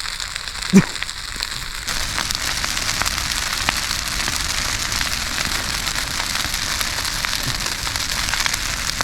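Large brush-and-branch campfire crackling and popping, a dense run of sharp snaps over a steady hiss, growing louder about two seconds in.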